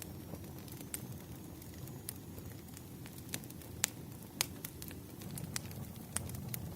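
Wood fire crackling: a steady low rumble of burning, with scattered sharp pops and snaps, the loudest a few seconds in.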